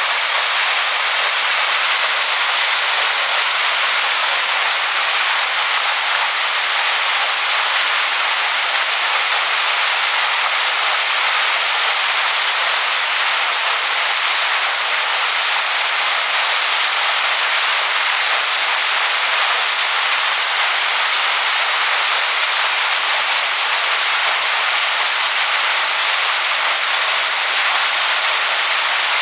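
Waterfall rushing over stones, a steady, loud hiss of falling water with most of its energy high up.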